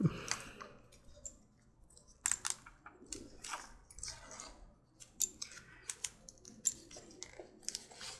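Handling of a leather strap and its metal ring and rivet parts: irregular light clicks and rustles, a few sharper ticks among them.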